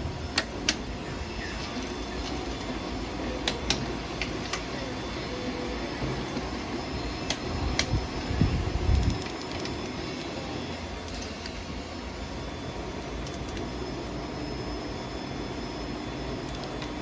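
A shop fan running steadily, with a few single sharp clicks in the first half and a short run of low knocks about eight to nine seconds in, as tools and parts are handled.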